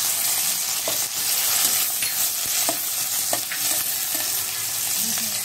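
Onions and garlic sizzling in hot oil in a stainless steel kadai, with a spatula stirring and scraping against the pan, giving a few light clicks over a steady hiss of frying.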